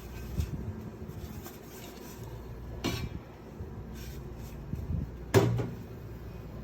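Stainless steel French press being handled: three short knocks and clinks, the loudest about five and a half seconds in.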